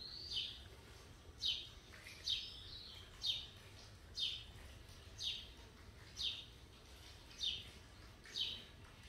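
A small bird repeating a short, high chirp that falls in pitch, about nine times at roughly one-second intervals.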